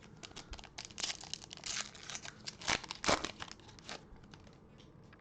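A 2021 Prestige football card pack's wrapper being torn open and crinkled by hand: a quick run of crackling rustles for about four seconds, loudest near the end, then stopping.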